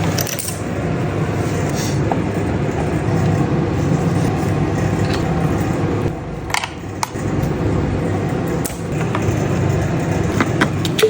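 Husqvarna chainsaw's two-stroke engine running steadily, with a few sharp clicks partway through.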